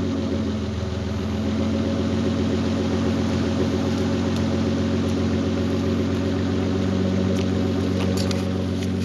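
BMW E30's 2.7-litre 'eta' straight-six idling steadily through an exhaust with only catalytic converters and no mufflers.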